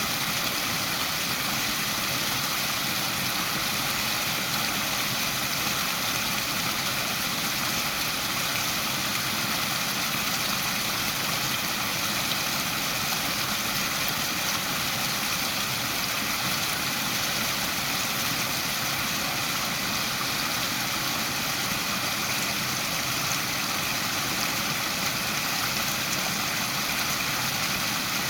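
Waterfall: water falling and rushing in a steady, even hiss with no breaks or changes.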